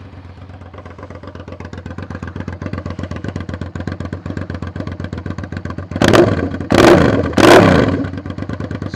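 Suzuki SV650S V-twin engine running with no exhaust fitted, only the cut-down header pipe, idling with a rapid pulsing beat and then revved three times in quick succession about six seconds in; super loud.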